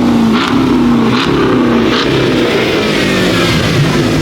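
Loud car engines revving, the engine pitch repeatedly climbing and dropping back, with short sharp bursts about once a second in the first two seconds.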